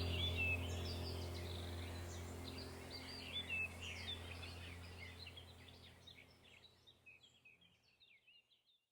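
Birds chirping and trilling in quick, varied calls over a low, steady droning tone from background music. The whole mix fades out gradually to silence near the end.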